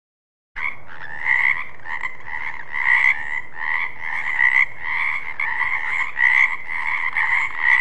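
Frog croaking in a steady run of repeated calls, about two a second, starting abruptly about half a second in.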